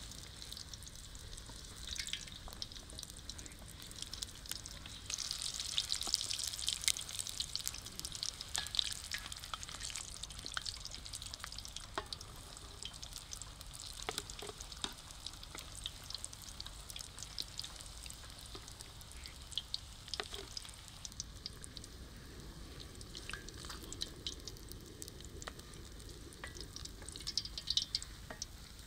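Samosas frying in hot oil, a steady sizzle with many scattered crackles and pops. It swells for a few seconds about five seconds in and again near the end.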